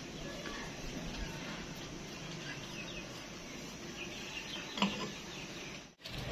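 Steady outdoor background noise with small birds chirping faintly, and a single short click a little before five seconds in.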